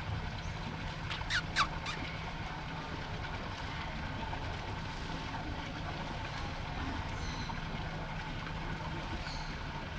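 Steady low drone of a running vehicle engine, with three quick, sharp squeals falling in pitch about a second and a half in.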